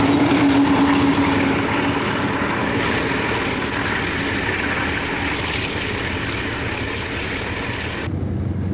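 Diesel-hauled train passing, with a steady engine drone for the first couple of seconds and then a rushing rumble that slowly fades. The sound changes abruptly about eight seconds in.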